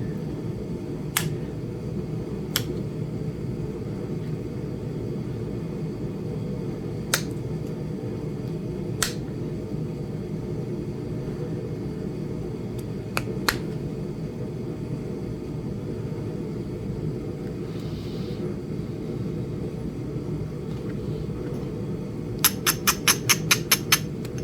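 Sharp, isolated clicks of stone-flaking work on a small Flint Ridge chert point, a few seconds apart, then a quick run of about ten light taps near the end. A steady low hum runs underneath.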